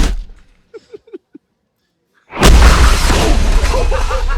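A sharp loud boom right at the start and a few faint short knocks, then a little over two seconds in a second, louder boom that carries on as a heavy rumbling noise.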